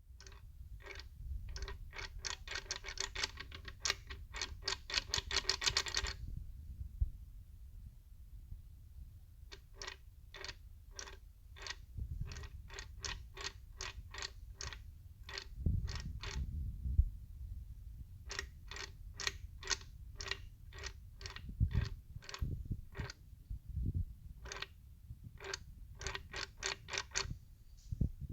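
BMW 320i E46 rear end giving several low, heavy clunks under a steady rumble, the sign of broken spider gears in the differential and a worn differential bushing. A steady ticking runs over it, about two to three ticks a second.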